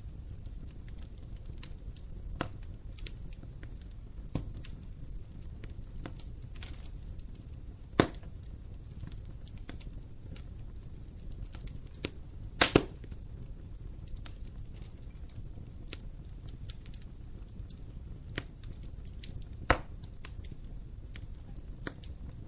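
Wood fire burning in a fireplace: a steady low rumble of the flames with irregular crackling and a few louder pops, two of them close together about halfway through.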